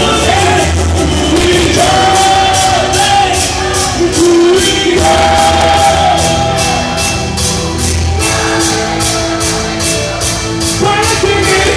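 A band playing with a singer's sustained melodic lines over a steady, evenly pulsing beat.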